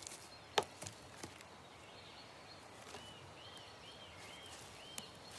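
A few scattered sharp knocks of a woodpecker's beak striking wood, then a bird calling a quick run of five short, arched whistled notes past the middle.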